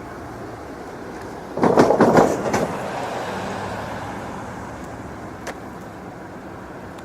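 Steady rumble of a vehicle. About one and a half seconds in, a loud, rough, rapidly pulsing burst of noise lasts about a second.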